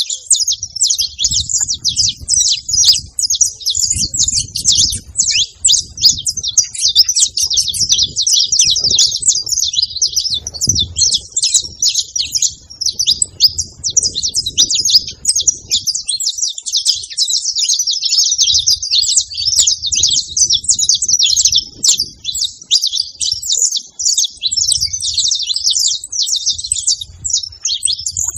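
Saffron finches chirping and singing in a dense, unbroken stream of rapid high chirps.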